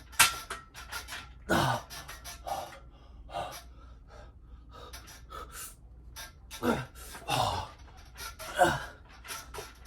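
A man's loud gasps and strained exhalations from exertion during an ab exercise: about five sharp breaths, several falling in pitch like grunts, with quieter breathing between.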